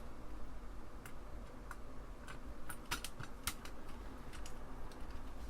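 Light, irregular clicks and ticks of a hand screwdriver turning small screws into an Apple II Plus keyboard assembly, snugged gently without much torque. The clicks bunch together around the middle.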